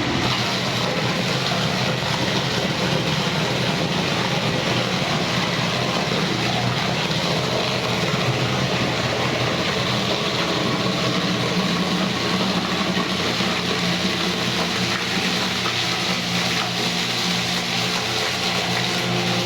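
Electric-motor-driven meat grinder for bakso running steadily, a constant machine hum with an even noise over it and no change in speed.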